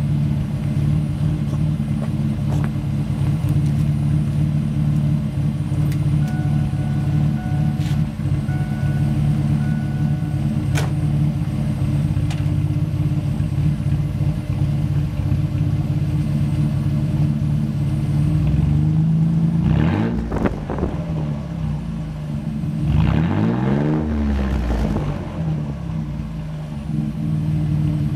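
1992 Ford Taurus's stock 3.8-litre Essex V6 running through an exhaust with the muffler deleted. It idles steadily, then is revved a few times in the last third, each rev rising and falling back to idle.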